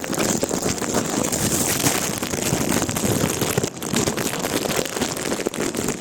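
Heavy rain falling steadily, a dense crackling hiss, with wind noise on the microphone.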